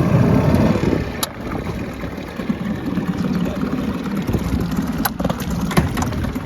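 Small Yamaha 4 hp outboard motor running, louder for the first second or so and then settling to a steady run, with a few sharp clicks along the way.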